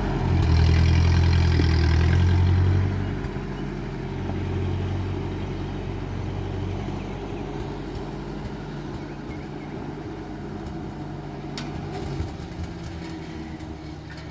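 1949 Ford 8N tractor's four-cylinder flathead engine running, louder for the first three seconds, then settling to a quieter steady run.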